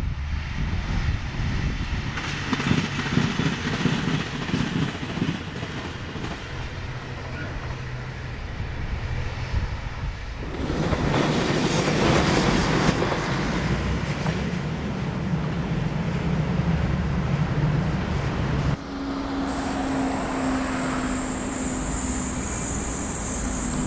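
JR Shikoku 2000 series diesel railcar running on the line, its engines and wheels rumbling, then passing close by with louder clickety-clack of the wheels on the rails from about ten seconds in. In the last few seconds a different steady high-pitched buzz takes over.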